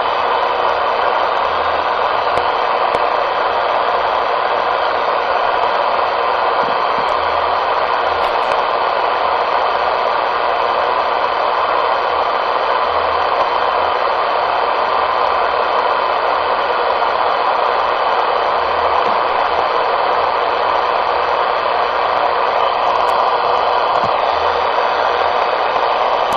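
CB radio speaker putting out a steady, loud rushing hiss, the sound of another station holding its transmitter keyed open on the channel.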